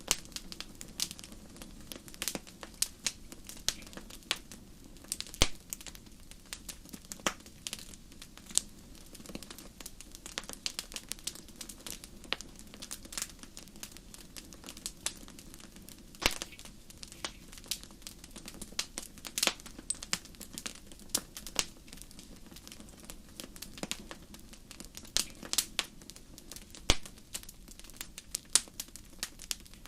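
Wood fire crackling in a fireplace: irregular sharp pops and snaps, some louder than others, over a steady low rush.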